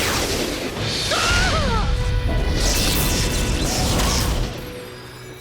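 Dramatic cartoon score mixed with magic sound effects: whooshes, a crash and a few gliding tones about a second in, fading down near the end.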